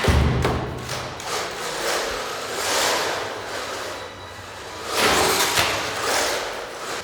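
WLToys 144002 RC monster truck driving on rough ground, a rushing noise of tyres and motor that swells and fades twice as it passes, with a thump at the start.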